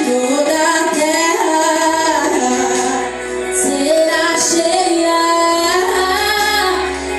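Worship music: a woman singing sustained melodic lines over instrumental accompaniment.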